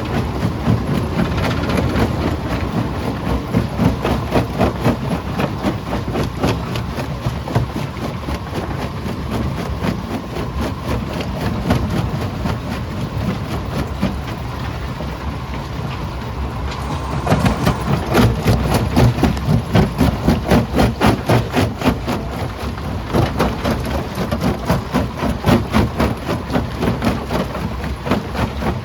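Primary jaw crusher crushing rock: a dense, continuous clatter of stones knocking and breaking over a steady low machine rumble. A little past the middle the clatter swells into a regular pulse, about two beats a second.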